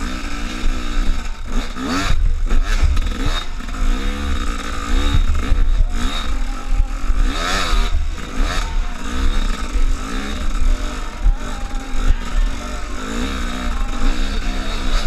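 An engine revving up and down over and over, over a low, buffeting rumble, with a few knocks and clatters, the loudest about two seconds and seven and a half seconds in.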